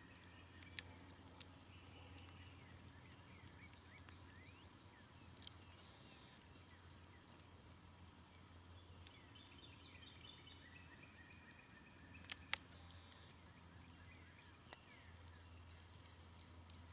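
Faint crackling of a smoldering wood campfire, with sparse sharp pops, the loudest about twelve seconds in. Birds sing and chirp in the background, and a short high chirp repeats about once a second.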